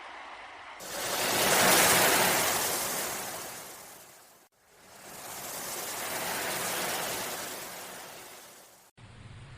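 Sea waves surging in twice, each swell rising and then fading away before cutting off abruptly, as in a looped wave recording.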